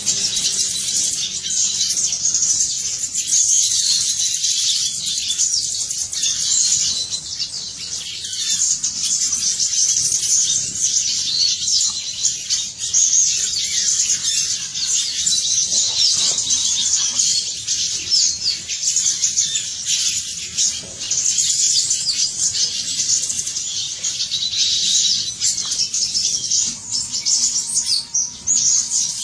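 A dense chorus of many small birds chirping without pause, high-pitched and steady throughout.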